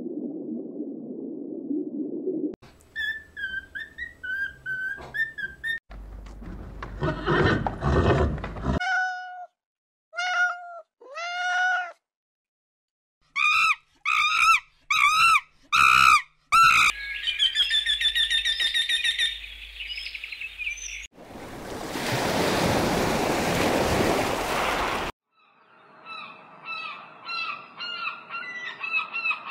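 A run of different animal calls, one short recording after another with abrupt changes between them, with bird chirps among them and a few repeated pitched calls in the middle.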